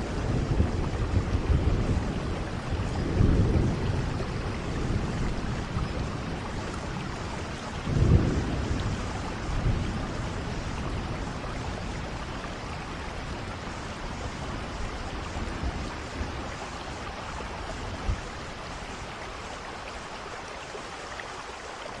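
Steady rain with low rolls of thunder, strongest about three and eight seconds in. The rumbling dies away through the second half, leaving the rain hiss.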